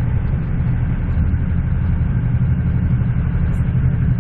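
Steady low rumble of a passenger train coach running at speed, heard from inside the carriage: wheels and bogies running on the track.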